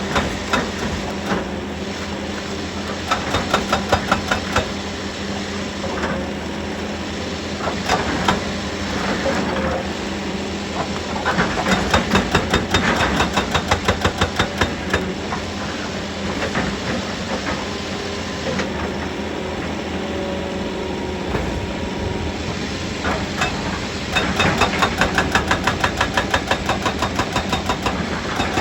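Heavy diesel machinery running steadily, with stretches of fast, even knocking and clatter, several a second, that come and go.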